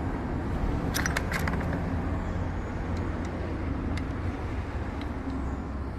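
Steady low background rumble, with a few light metallic clicks about a second in as starter-motor parts are handled during reassembly.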